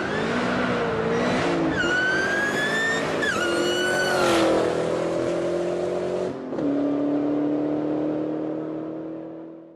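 Car engine running at high revs, with a high squealing tone gliding up and down over it for the first few seconds. After a brief dip it holds a steady engine note, then fades out.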